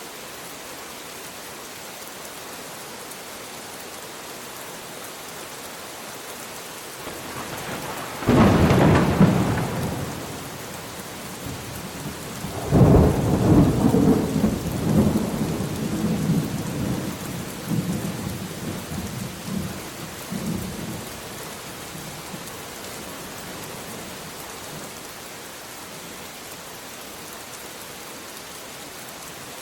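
Steady rain hissing, with a thunderclap cracking about eight seconds in and dying away, then a longer peal of thunder rolling and rumbling for several seconds before fading back to the rain.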